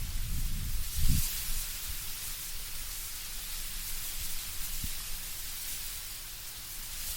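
Wind blowing through autumn trees, the leaves rustling as a steady airy hiss. A low gusty rumble in the first second or so dies away.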